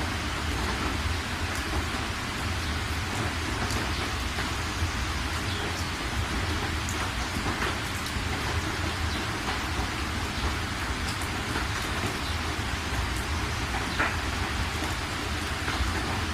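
Steady rain with a constant low rumble, and single drops ticking here and there through the patter.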